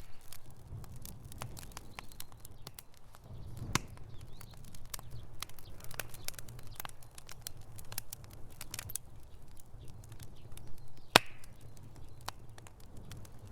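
Wood fire crackling in a fireplace: a steady low rumble of flames with irregular sharp pops and snaps, one louder crack about eleven seconds in.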